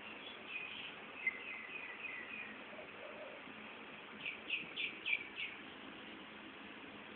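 Faint small-bird chirps: a run of short chirps in the first couple of seconds, then five quick chirps a little past the middle. There is a single sharp click about a second in.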